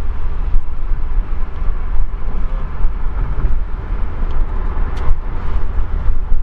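Mercedes-AMG C63's 4.0-litre twin-turbo V8 and road noise heard inside the cabin while driving: a steady low rumble. A light click about five seconds in.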